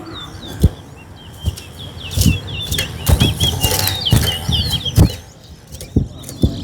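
Caged towa towa (chestnut-bellied seed finch) singing a fast run of quick, curling chirps that stops about two-thirds of the way through, amid several dull thumps.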